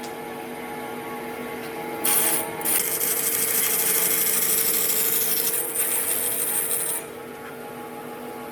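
A power tool working wood: a loud, high-pitched abrasive cut or sanding pass lasting about five seconds, with a short break about half a second after it starts, over the steady hum of a running motor.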